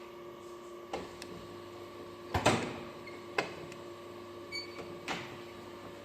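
Hebrock Top 2000 automatic edgebander running with a steady hum, broken by four sharp mechanical clacks, the loudest about two and a half seconds in.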